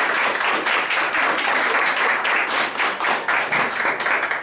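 Audience applauding, the clapping thinning into more separate claps in the last second or two and then stopping abruptly near the end.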